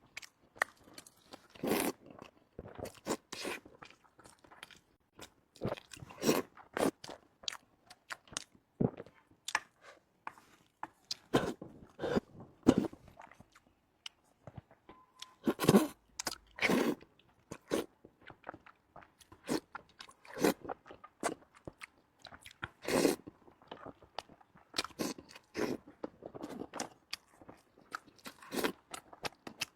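A person chewing and crunching food close to the microphone, with crisp bites at uneven intervals.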